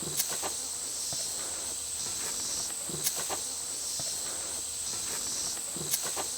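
Steady high-pitched chorus of insects, with a few faint ticks scattered through it.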